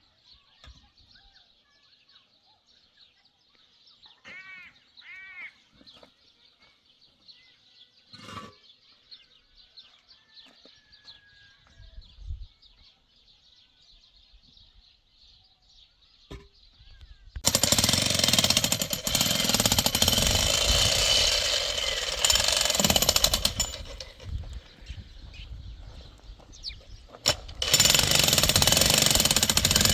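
A loud power tool with a hammering action starts about halfway through, runs for several seconds, eases off, then runs hard again near the end. Before it there is only faint outdoor background with a few bird chirps.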